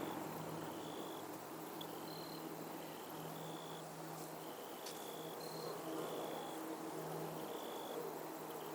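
Insects chirping in short, high-pitched trills that repeat every second or so, over a faint low hum that comes and goes.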